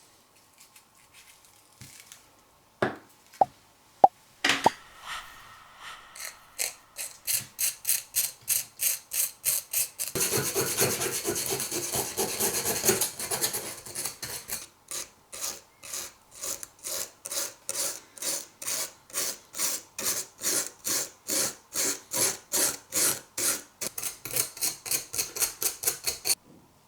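An old chisel's steel being worked by hand with an abrasive, scraped in back-and-forth strokes at about two a second. A few sharp knocks come first, and there is a faster, continuous stretch partway through. The strokes stop suddenly near the end.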